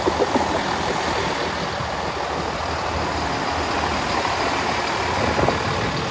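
First Great Western diesel multiple unit running past a station platform: a steady diesel engine and wheel rumble.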